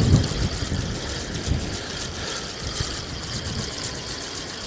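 Strong storm wind buffeting the microphone: a steady rushing noise with low, uneven rumbles.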